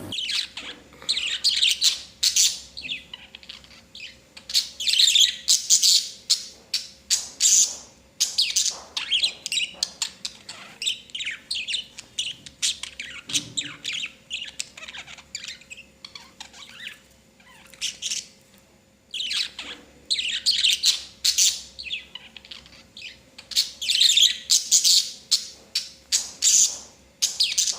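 Budgerigars chirping and chattering in their cage: runs of quick, high chirps with short pauses and a brief lull a little past the middle, over a faint steady hum.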